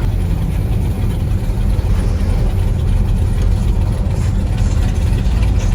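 A car engine idling or running steadily, loud and low-pitched with a rapid flutter.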